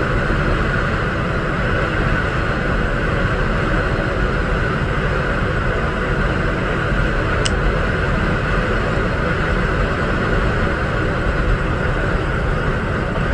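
Steady road and engine noise of a vehicle driving on the highway, recorded by a dashcam, with a brief high chirp about halfway through.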